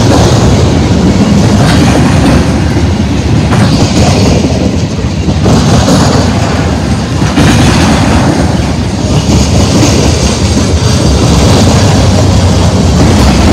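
Freight train's covered hopper cars rolling past at close range: loud, steady noise of steel wheels running on the rails.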